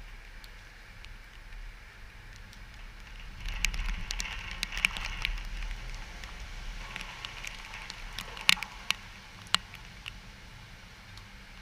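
Rain from a hurricane rain band, with a low rumble of wind that swells about three seconds in and eases off, and scattered sharp drop impacts, the loudest a little past halfway.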